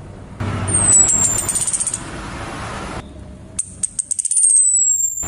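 Female orange-headed thrush calling: a thin, high whistle sliding downward over a fast rattle of high ticks, heard twice. This is the female's call to males, used by birdkeepers as a lure to set males singing. A steady hiss lies under the first call.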